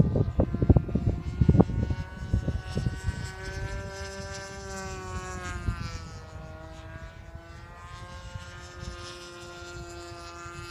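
Radio-controlled model airplane's motor and propeller droning in flight, its pitch wavering up and down as it flies around. Wind buffets the microphone in the first couple of seconds.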